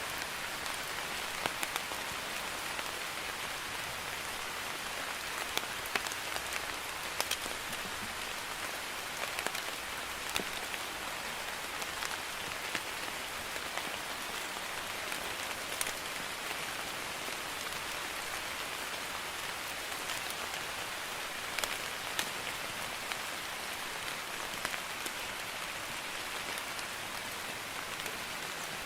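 Light rain (drizzle) falling steadily, an even patter with scattered individual drops tapping close by.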